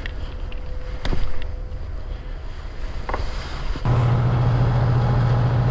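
Wind on the microphone with a couple of light clicks, then about two-thirds of the way through a machine's steady low hum starts suddenly and keeps running.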